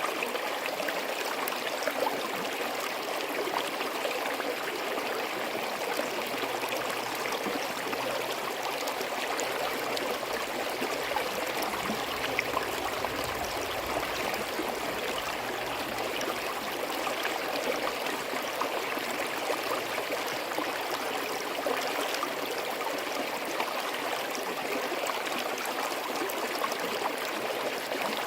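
Forest stream flowing steadily over rocks, a constant rush of water with small trickles and gurgles.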